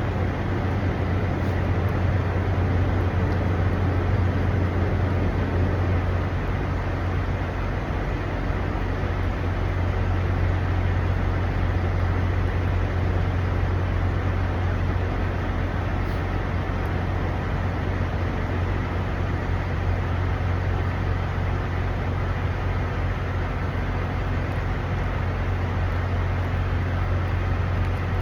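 Steady low drone of idling diesel semi-truck engines, an unchanging hum with a broad rumble over it.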